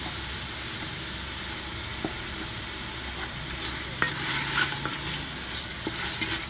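Chicken pieces sizzling as they sauté in a stainless steel pot, stirred with a wooden spatula. From about four seconds in, the spatula's scraping and clacking against the pot get louder and come in quick strokes over the steady sizzle.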